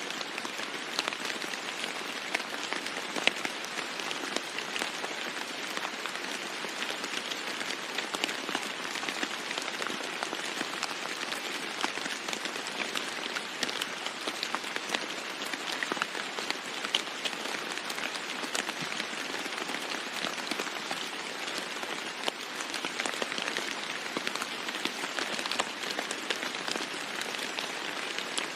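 Steady rain falling on a roof: an even hiss of rain with many separate drops ticking through it.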